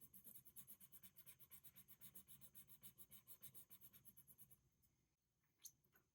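Colored pencil scratching on paper in fast back-and-forth strokes, about six a second, stopping about four and a half seconds in. One small tick follows near the end.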